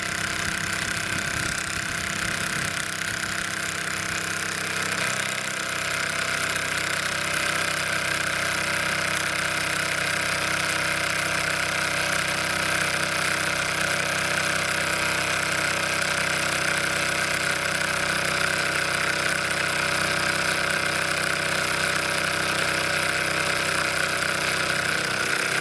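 Bowman M135 live-steam model engine running steadily under steam, a continuous hiss over an even mechanical running note; the low part of the note shifts slightly about five seconds in, then holds. It is running well.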